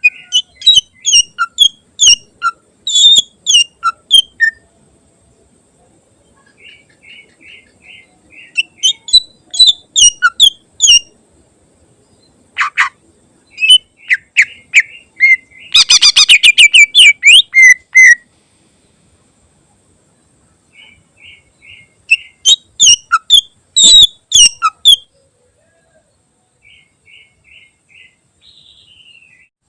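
Greater green leafbird (cucak ijo) singing in loud, varied bursts of sharp whistled notes and runs of short repeated chips, with a fast rattling trill about sixteen seconds in. Its song is filled with mimicked phrases of other birds.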